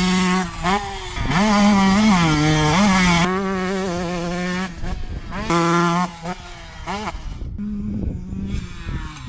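2022 Husqvarna TC125's single-cylinder two-stroke engine revving up and down on and off the throttle, with wind noise on the unshielded microphone. It falls back to a quieter off-throttle run about six seconds in, with one short rev near seven seconds.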